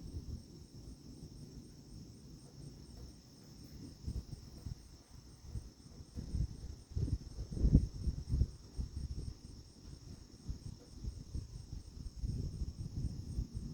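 Crickets trill steadily, with a regular high chirp repeating a few times a second. Under them runs a low, irregular rumbling noise that swells loudest a little before the eight-second mark.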